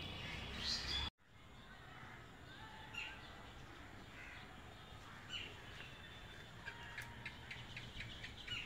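Faint outdoor background with birds chirping and calling now and then, and a quick run of calls near the end. The sound drops out for a moment about a second in.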